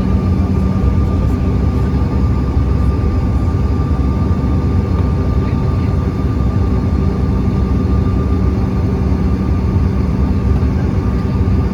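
Steady engine and airflow drone inside the cabin of an American Eagle regional jet, with a constant hum running through it.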